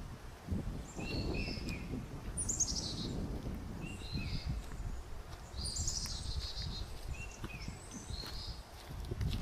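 Woodland birds singing: short repeated whistled phrases and two quick descending trills, about two and a half and six seconds in. Footsteps on a forest trail run underneath.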